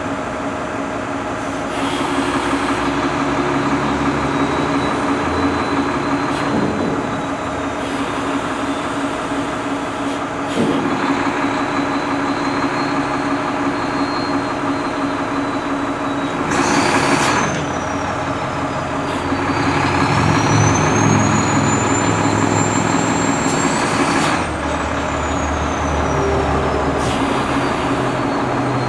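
Heavy diesel truck engine running steadily, with a short burst of hiss about two-thirds of the way through and a faint high whine that rises and falls.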